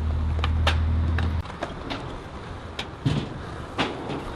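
Skateboard wheels rolling on concrete with a low rumble that stops abruptly about a second and a half in, followed by a handful of sharp clacks.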